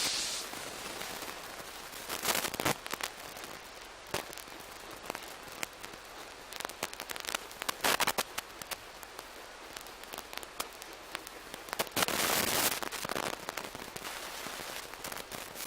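Narrow-gauge steam locomotive standing in a station, hissing steam, with louder bursts of hiss about two seconds in, around eight seconds and near the end, over many sharp crackling clicks.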